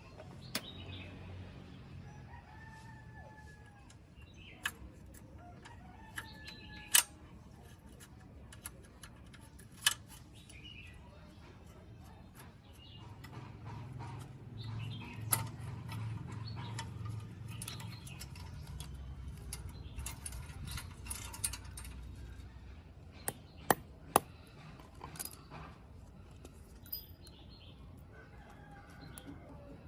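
Scattered sharp clicks and knocks, with a bird calling a few times in the first several seconds and a low hum swelling in the middle.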